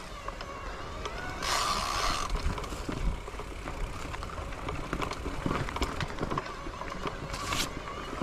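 Wind rushing over the microphone and road noise while riding a bicycle, with a short loud hiss about a second and a half in and another near the end.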